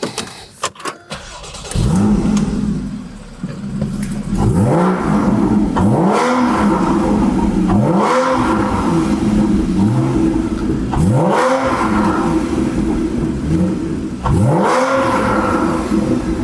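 Porsche Cayman 981's 2.7-litre flat-six, fitted with an aftermarket homologated sport exhaust, starting up about two seconds in after a few short clicks. It is then revved in a series of throttle blips, each rising and falling in pitch over the idle.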